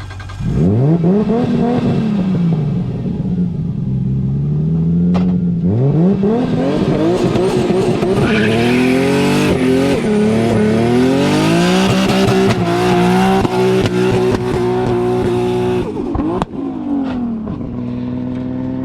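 Nissan S15 drift car's engine revved hard twice, then held at high revs for about eight seconds while the rear tyres spin and squeal. Near the end it drops back to a steady idle.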